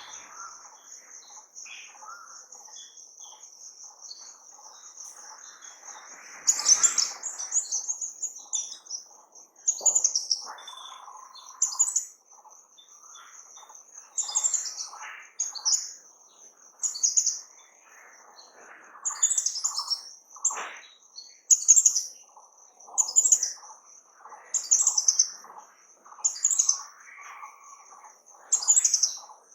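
Birds singing. From about six seconds in, one bird repeats a loud short phrase roughly every two seconds, over a steady high-pitched trill and quieter scattered calls from other birds.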